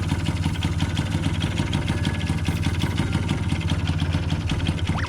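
Yamaha BJ (Basic Jog) scooter's small two-stroke engine running steadily with a rapid, even pulse, freshly revived by a carburettor overhaul after years of sitting unused.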